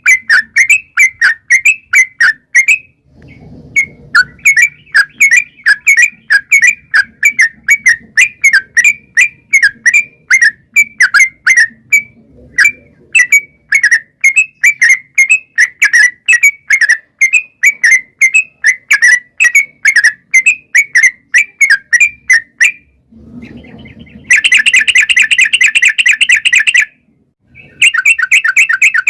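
Yellow-vented bulbul (trucukan) singing its rolling song: a long run of sharp chattering notes at about four a second, with two short breaks. About 24 seconds in it changes to a dense, fast trill for a few seconds before the notes resume.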